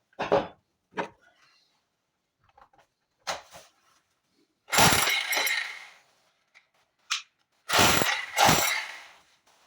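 Irregular knocks and clattering crashes of brick and concrete being broken out of a core-drilled hole through a wall, the loudest about halfway and again near the end.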